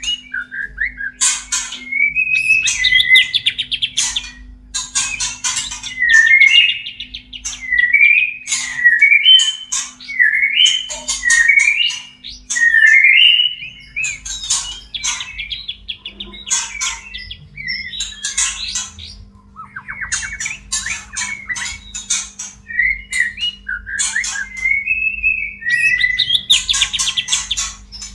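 White-rumped shama (murai batu) in breeding condition, calling in repeated bursts every second or two: short whistled phrases that slide up and down, mixed with harsh scratchy chatter. These are courtship calls of a male courting a female.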